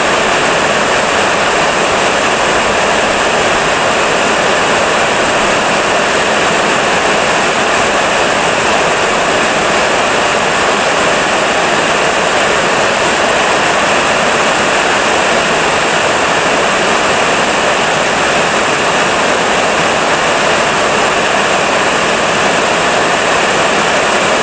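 Heavy rain falling steadily: a loud, dense, even hiss that does not let up.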